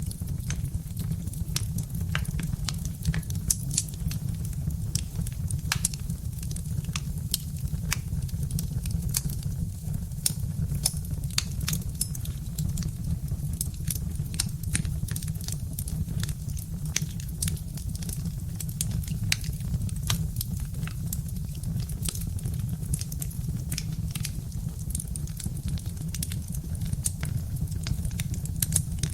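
Birch-log fire crackling, with frequent irregular sharp pops and snaps over a steady low rumble.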